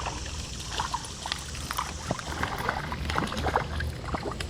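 Creek water splashing and trickling, with irregular short splashes as a hooked trout is played at the surface, over a low steady rumble.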